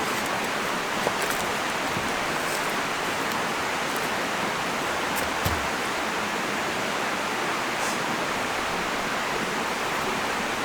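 Steady, even rushing noise, with a few faint knocks and clicks over it.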